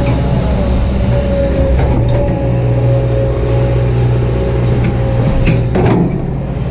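Kobelco SK200-8 excavator's diesel engine running steadily under working load, with a steady hydraulic whine over it. A few sharp knocks come near the end.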